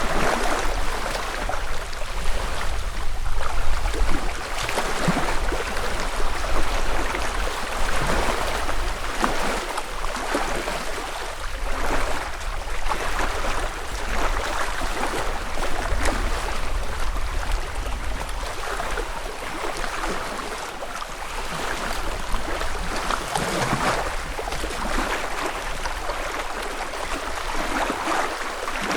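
Small lake ripples lapping at the shore in an irregular run of soft splashes, about one a second, over a steady low rumble.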